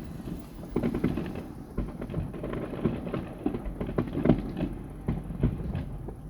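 Fireworks grand finale: a rapid, overlapping barrage of booms over a continuous rumble, the loudest bangs about four and five seconds in.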